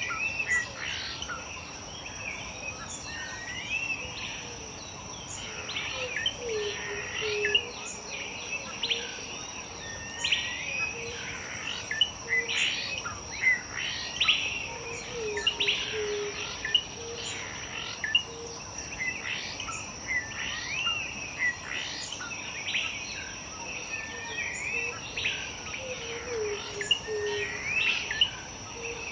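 Several wild birds singing and calling together in many quick chirps and whistled phrases, over a steady high insect drone. A lower call of a few notes repeats every four to five seconds.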